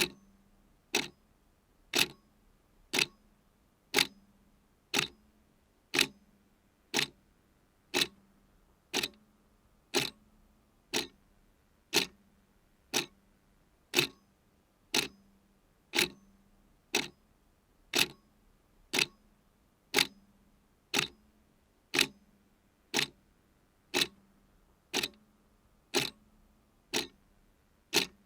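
Mechanical clock ticking steadily, one sharp tick each second.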